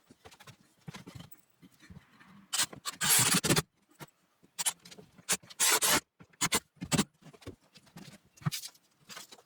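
Irregular scraping and rubbing strokes from carpentry work on wood, in short bursts with quiet gaps. The longest and loudest comes about three seconds in, with another loud one near six seconds.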